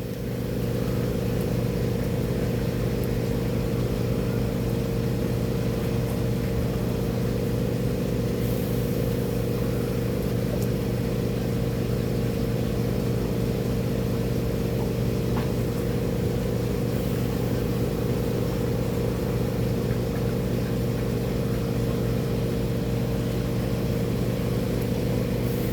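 An engine running steadily at one speed, a constant droning hum with no change in pitch.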